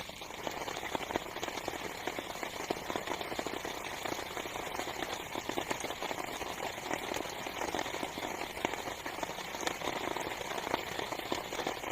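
Heavy rain falling on a small tent's fabric: a dense, steady hiss of countless drop ticks, growing a little louder just after the start.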